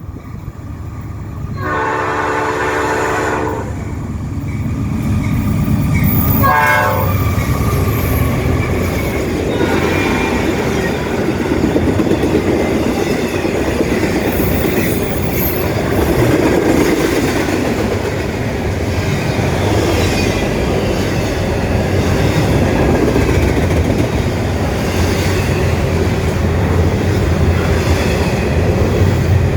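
Norfolk Southern diesel freight locomotive sounding its horn in a chord about two seconds in, with a brief second blast near seven seconds, then the train passing: diesel engines running and wheels clacking and rattling over the rails.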